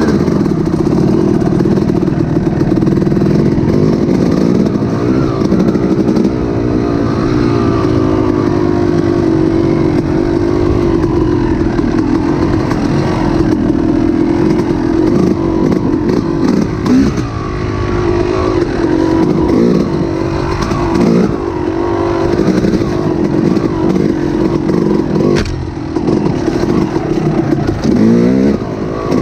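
An engine running continuously, its pitch wavering up and down as the revs shift.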